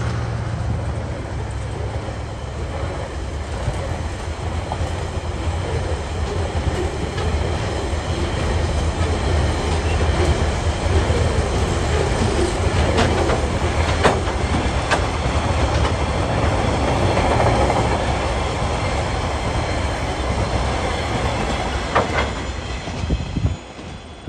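Freight train's coal hopper wagons rolling past: a steady rumble of steel wheels on rail, with a few sharp clicks. The sound drops away suddenly near the end as the last wagon passes.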